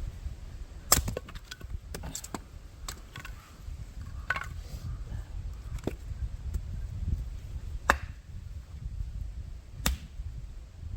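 Sharp, irregular wooden cracks and knocks of firewood, about seven spread over several seconds, over a low steady rumble.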